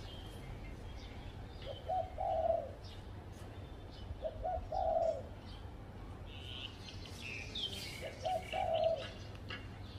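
Spotted dove cooing three times, each phrase a short note followed by a longer rolling coo. Small birds chirp faintly and higher-pitched in the background, mostly in the second half.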